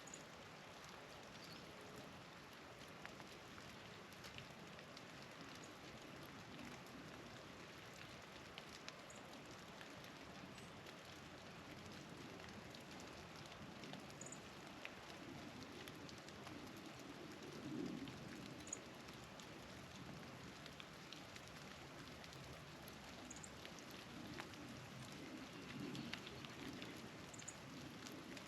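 Faint steady hiss of falling wet snow or rain, with short high chip notes from small birds every few seconds.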